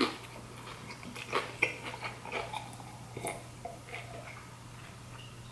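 A person chewing battered fried seafood with the mouth close to the microphone: soft crunching and scattered small mouth clicks, over a faint steady hum.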